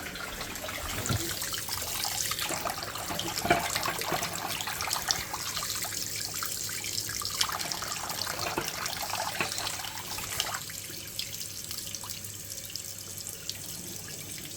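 Hot water tap running into a sink, a steady splashing hiss with a few small knocks, quieter from about ten seconds in. The hot water is being run to check its temperature from the combi boiler.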